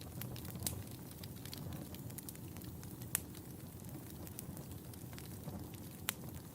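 Wood fire burning in a fireplace: a steady low rumble of flames with frequent small crackles and a few sharper pops, one about three seconds in and another near the end.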